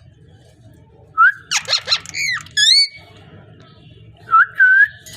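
Pet parrot whistling and calling. It gives a rising whistle, then a quick run of rough calls and warbling notes, and two short whistles near the end.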